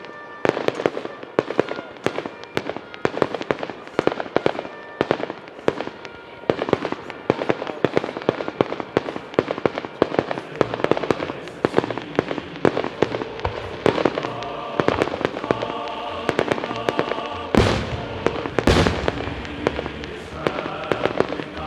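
Fireworks display: rapid crackling pops throughout, with two loud shell bursts about two-thirds of the way through. Background music plays under it.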